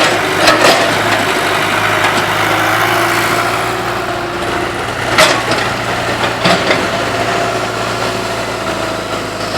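Excavator's diesel engine running steadily, with a few sharp knocks, the loudest about five seconds in.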